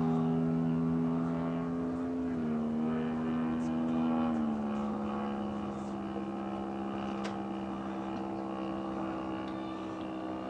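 Engine and propeller of a large-scale Super Decathlon RC model plane running steadily in flight, its pitch shifting down and up a few times.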